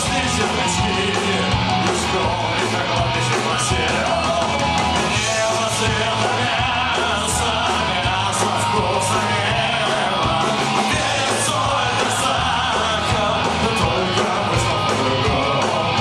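Loud punk rock music: a band with drums and cymbals, electric guitars and shouted singing.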